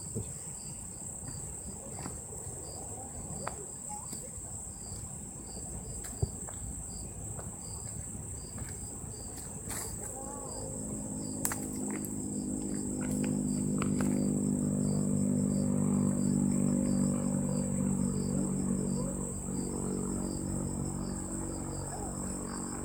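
Insects chirring in a steady high buzz, with a fainter pulsing insect call beneath it. Around the middle a low mechanical drone swells up, becomes the loudest sound, then fades away.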